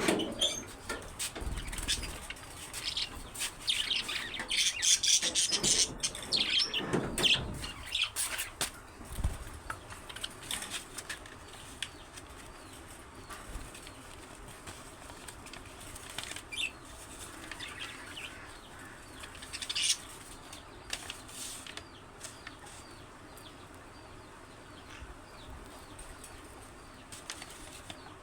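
Budgerigars chirping and flapping their wings, with a busy flurry of wingbeats and chirps for the first eight seconds or so, then scattered short chirps.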